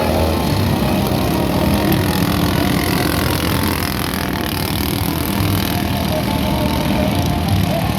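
Racing lawn mowers' small engines running steadily together.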